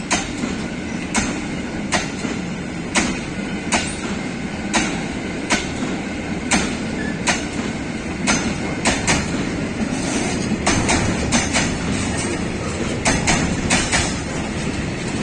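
Wheels of a long freight train of container flat wagons rolling past over rail joints. A steady rumble is broken by sharp clacks about once a second, which come quicker and in clusters from about ten seconds in.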